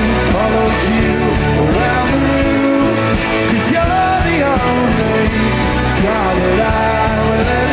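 Rock band playing live and loud, a lead melody line sliding up and down in pitch over a full, steady backing.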